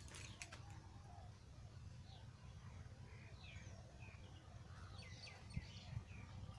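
Faint bird calls: short, scattered falling chirps over a quiet, steady low background rumble.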